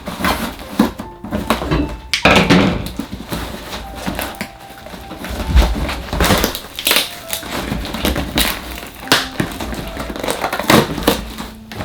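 Cardboard parcel being cut and torn open by hand: irregular crunching, scraping and crackling of cardboard and tape, with occasional knocks.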